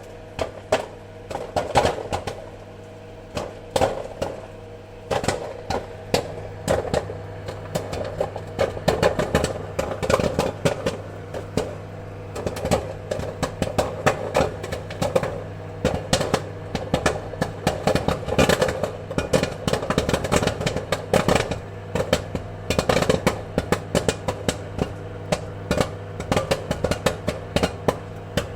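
Popcorn kernels popping in quick, irregular succession, a dense patter of sharp pops over a steady low hum.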